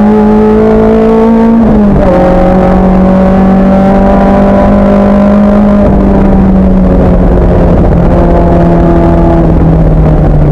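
Racing car's engine running hard and loud, with a sudden drop in revs about two seconds in as it changes gear, then revs slowly sagging with another small step down near the end.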